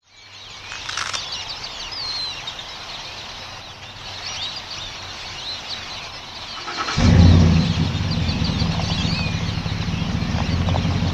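Many birds chirping and calling. About seven seconds in, a low steady hum starts suddenly and becomes the loudest sound.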